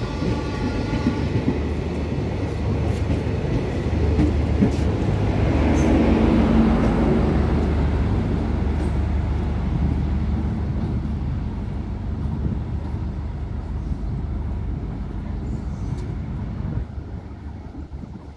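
DEMU diesel-electric multiple-unit passenger train running past and away. The horn sounds for the first second or so, then the coaches and the power car's diesel engine rumble steadily, loudest about six seconds in, and the sound fades as the train draws off into the distance.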